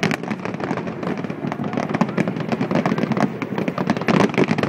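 Fireworks display: a dense, continuous run of sharp pops and bangs from many small shells bursting at once, crackling throughout.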